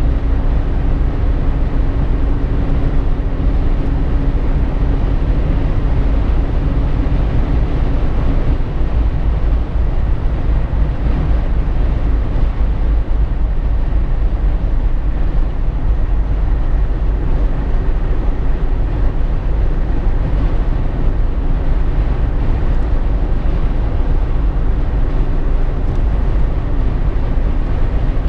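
Jeep Wrangler JK driving, heard inside the cabin: steady road and engine noise with a strong deep rumble. A steady hum fades out about eight seconds in.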